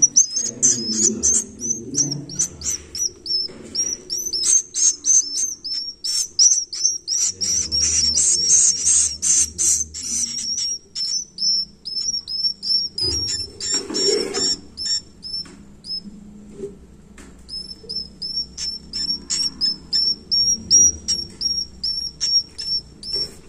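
Swiftlet chicks calling: a long run of short, high chirps repeated several times a second, denser and louder in the first half, pausing briefly about two-thirds of the way through before starting again.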